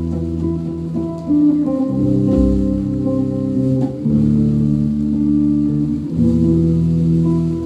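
Live band playing an instrumental passage without vocals: guitar and bass guitar holding sustained chords that change every second or two.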